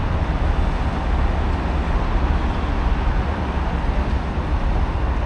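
Steady city street noise: a continuous low rumble of road traffic.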